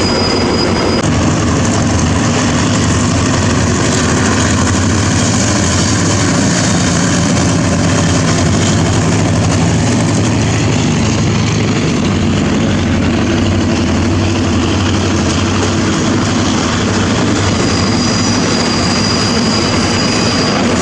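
Diesel locomotive engine running loud and steady, a deep engine drone that holds throughout.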